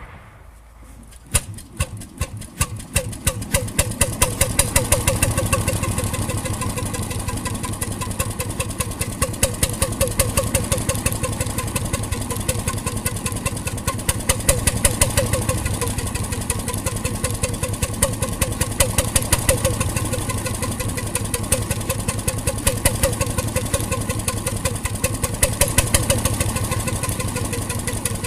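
1921 RSM 3½ HP hotbulb marine engine starting: a sharp first knock about a second in, then the firing strokes come faster over the next few seconds. It settles into a steady, even running beat.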